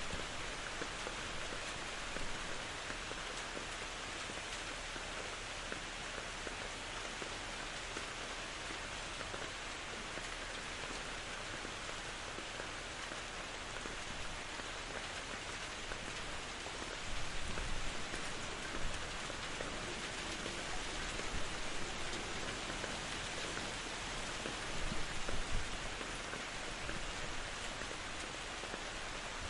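Steady rain falling in a forest, an even hiss, with a few brief louder low rumbles about two-thirds of the way through and again near the end.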